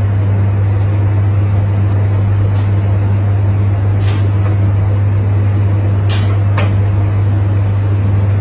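Loud steady low motor drone with a noisy rush over it, broken by three short hisses.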